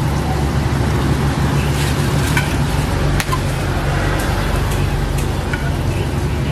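Hotteok pancakes frying in oil on a flat griddle, sizzling steadily over a low hum, with a few light metal clicks as a steel press flattens them.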